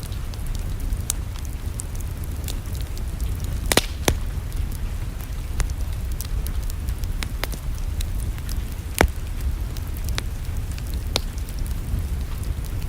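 Wood fire crackling in a fireplace: scattered sharp pops and snaps at irregular intervals, the loudest a pair about 4 s in and one about 9 s in, over a steady low rumble.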